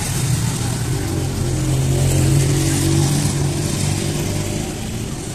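Street traffic: a motor vehicle's engine running close by, growing louder and then easing off as it passes, over a steady hiss of road noise.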